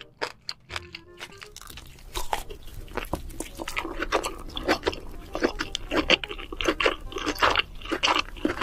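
Close-miked eating: crunching and chewing, denser and louder from about two seconds in.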